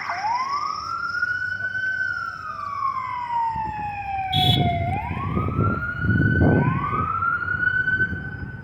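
Emergency vehicle siren sounding a slow wail that sweeps up, glides slowly down and rises again twice. A low rumble comes in near the middle, and the siren fades at the very end.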